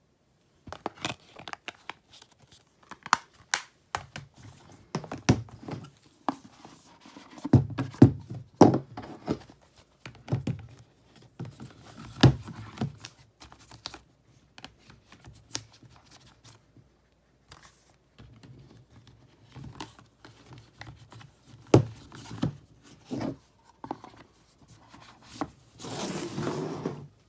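Hands handling and unwrapping Blu-ray packaging: plastic crinkling and tearing, with many scattered clicks and knocks from the cases, and a longer stretch of crinkling near the end.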